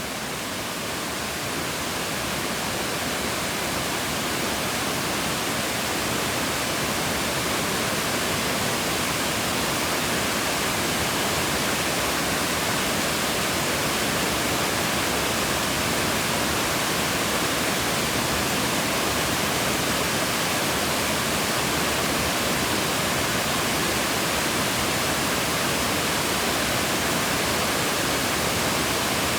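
Manido Falls, a river waterfall, rushing steadily. The sound swells a little over the first few seconds, then holds level.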